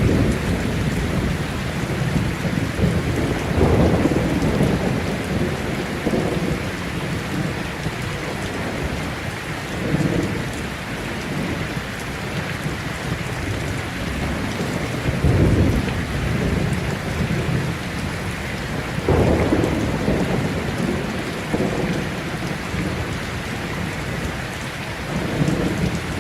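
Heavy rain falling steadily, with rolls of thunder rumbling in low swells every few seconds, the loudest about 4, 15 and 19 seconds in.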